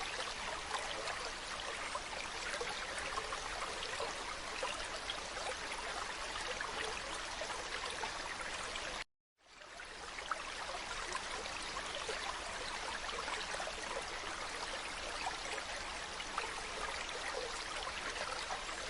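Mountain stream running steadily, an even rush of flowing water. It cuts out to silence for a moment about nine seconds in and fades back in.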